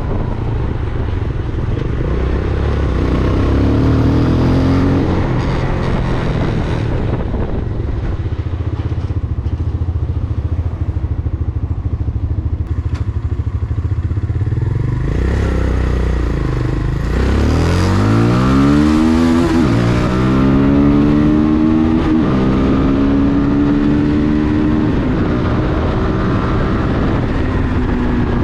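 Vento Alpina 300 motorcycle engine running under way, with wind rushing over the microphone. About two thirds of the way through the engine is opened up, its pitch rising steeply, then holds at a steady higher note.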